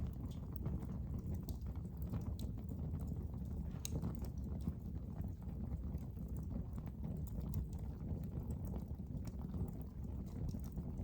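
Fire burning in a fireplace: a steady low rumble with irregular crackles and pops, one sharper pop about four seconds in.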